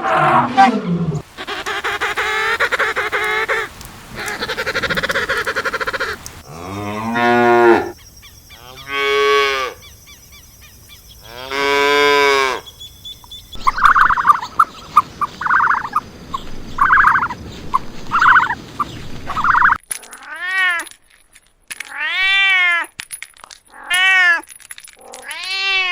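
A sequence of farm-animal calls: three long moos from cattle in the middle, then a run of short repeated calls, then a series of arching, bleat-like calls near the end.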